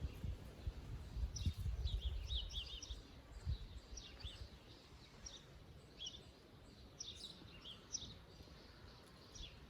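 Songbirds singing, a steady scatter of quick high chirps and short trills, over a low rumble that is strongest in the first three seconds.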